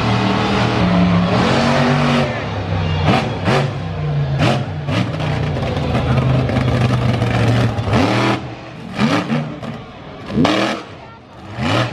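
Monster truck engine blipping the throttle in about eight short revs, each rising sharply in pitch, over a steady low engine hum that fades in the last few seconds.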